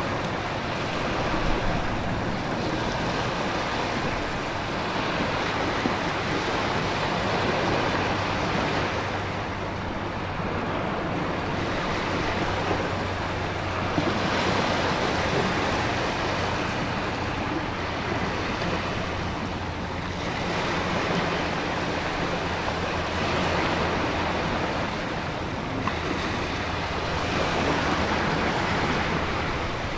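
Storm ambience: a steady rush of heavy rain and wind, with ocean waves surging and easing every several seconds.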